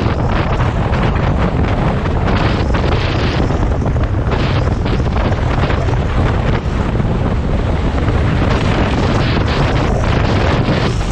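Wind buffeting the microphone: a loud, steady rumble and hiss that covers everything else.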